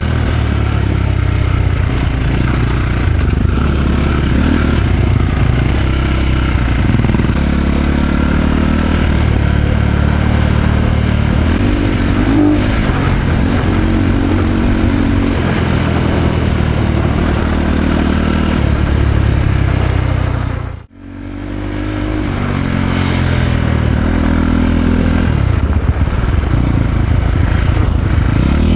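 Enduro dirt-bike engine running and revving as it is ridden, the pitch rising and falling with the throttle. About three quarters of the way through, the sound cuts out suddenly and quickly builds back up.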